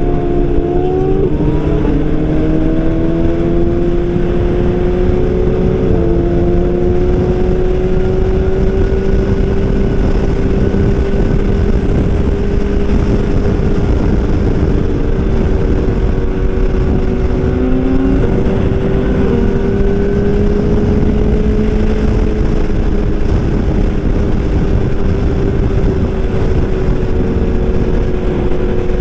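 Superbike engine pulling hard, its pitch rising through the first few seconds, dropping at a gear change about six seconds in, then holding steady at speed, over a constant rushing noise.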